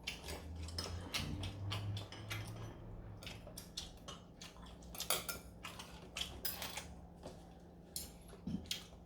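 Eating utensils clicking and clinking against bowls at a meal, many small irregular clicks.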